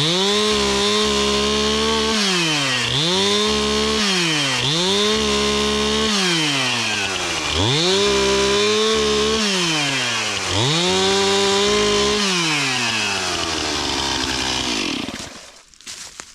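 Chainsaw cutting wood, its engine revved up to full throttle, held, then let back down, about five times over. Near the end the throttle is released and the engine winds down and stops.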